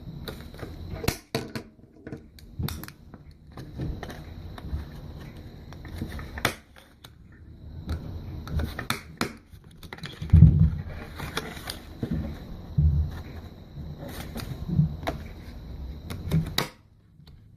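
Handheld stapler clicking shut again and again, several times in close pairs, as staples go through folded card flaps, with the paper pieces rustling and being handled between staples and a few dull knocks on the table.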